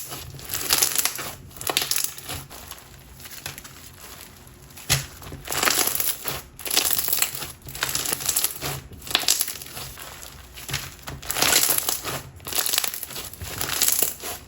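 Clear glue slime packed with silica beads and lava rocks being squeezed and pressed by hand, crunching and popping in repeated bursts about every second.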